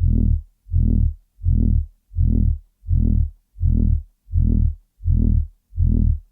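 Loud, low-pitched throbbing tone that pulses on and off evenly, about four throbs every three seconds, with a short silence between each.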